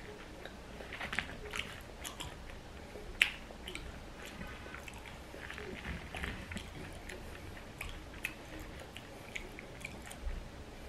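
Close-miked chewing: soft, irregular mouth clicks and smacks, with one sharper click about three seconds in.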